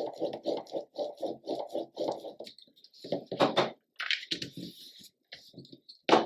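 Paper being handled and rubbed down by hand: rustling and scraping, with a sharp tap just before the end.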